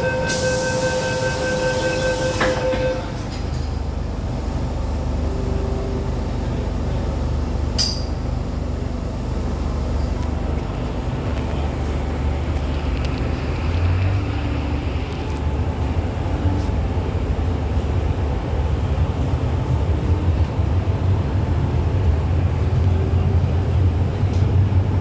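Hong Kong MTR M-Train: a steady, pulsing electronic beep over a hiss for the first two and a half seconds, then the train's low running rumble of motors and wheels, growing louder toward the end as it gathers speed.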